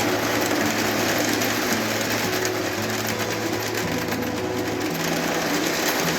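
Lionel O-gauge Fairbanks-Morse Trainmaster model locomotive running on layout track: a steady electric-motor whirr with the rolling rumble and ticking of its wheels on the rails.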